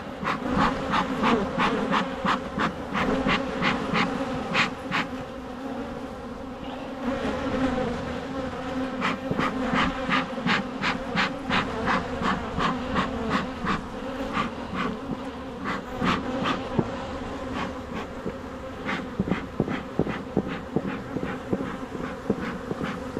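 Honeybees buzzing in a steady hum from an opened hive, with many short sharp ticks, a few a second, over the buzz.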